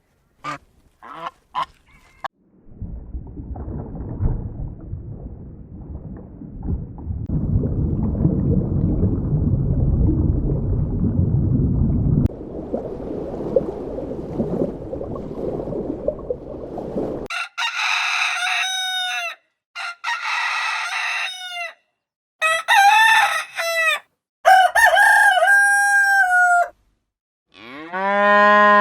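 Chickens clucking over a steady low bustle of the flock, then a rooster crowing about five times in the second half.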